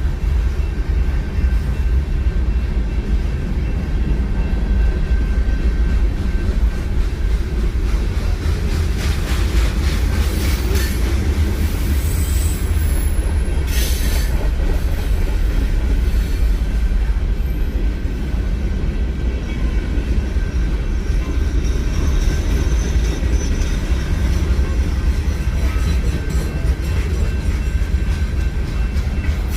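A train rolling past with a steady low rumble of wheels on rail, and a brief high wheel squeal about halfway through.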